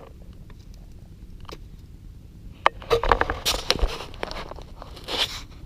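A flurry of rustling, scraping and crackling that starts suddenly about two and a half seconds in, after a few faint clicks.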